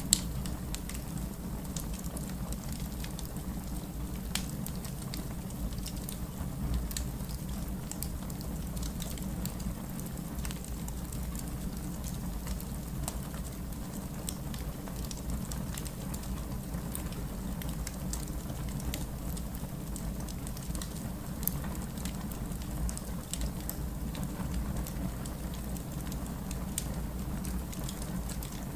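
Wood fire crackling in a fireplace: a steady stream of small pops and snaps over a low, even rumble, with a sharper pop right at the start and another about three-quarters through.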